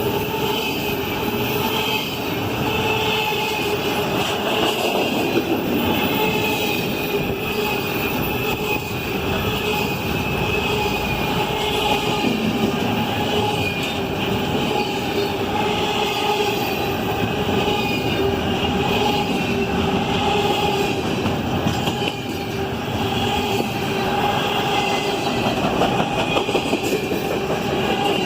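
Freight cars of a Norfolk Southern intermodal train rolling past, their wheels squealing against the rails in several steady, wavering tones over the continuous noise of the wheels on the track.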